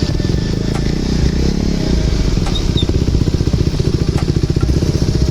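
Motorcycle engine running steadily, with a fast, even pulsing.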